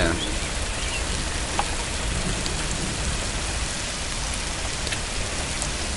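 Steady rain falling in a storm: an even hiss with a few separate drop ticks.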